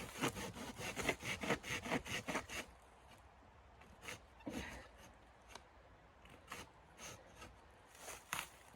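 A quick run of rasping, rubbing strokes, about five a second for the first two and a half seconds, then a few scattered single scrapes.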